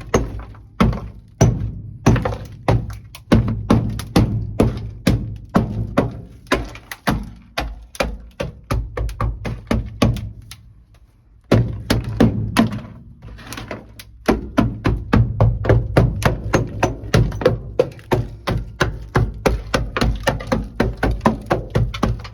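Rapid strikes of a mallet, several a second, with a short pause about halfway through.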